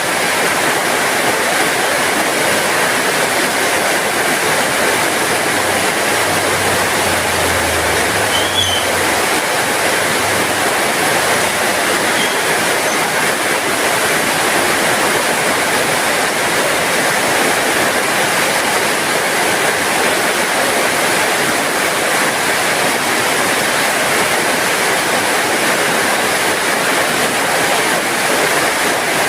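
Heavy rain falling steadily, a dense even hiss, with a faint low rumble between about six and ten seconds in.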